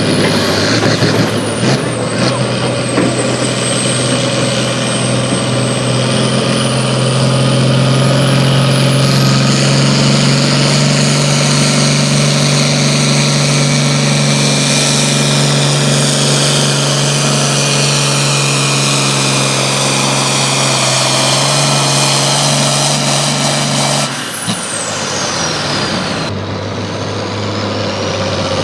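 Pulling truck or tractor engine held at full throttle under load for about twenty seconds, with a high whine climbing as it pulls. About twenty-four seconds in the throttle is cut: the engine note drops suddenly and the high whine winds down over a couple of seconds before the engine settles to a lower run.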